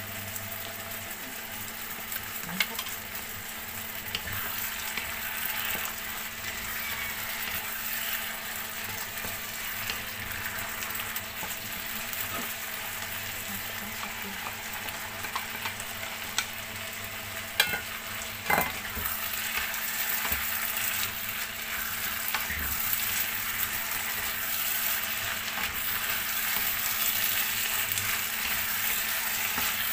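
Diced potatoes and onion sizzling in oil in a frying pan, a steady frying hiss. A few sharp knocks of a wooden spatula against the bowl and pan come around the middle as minced beef is scraped in and stirred through, and the sizzle grows a little louder afterwards.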